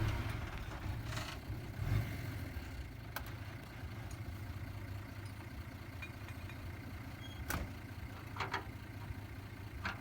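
Heavy earthmoving machine's diesel engine idling with a steady low rumble, and a few sharp knocks scattered through it.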